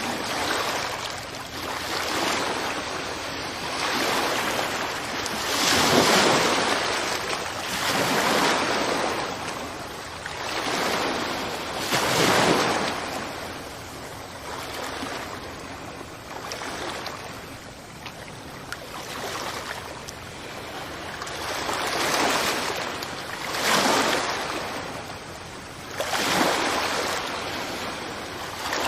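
Ocean waves breaking and washing up a beach, in surges that swell and fade every few seconds.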